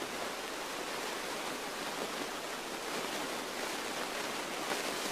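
Steady cabin noise of a Beechcraft Musketeer light airplane taxiing: an even rushing hiss with no distinct engine tone.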